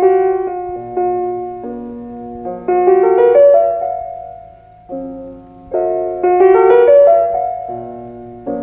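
Piano music: a slow phrase of struck notes, each fading away, with a rising run of notes about three seconds in; the phrase starts again a little over halfway through.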